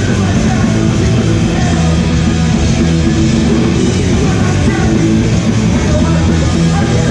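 Hardcore punk band playing live, loud and dense without a break.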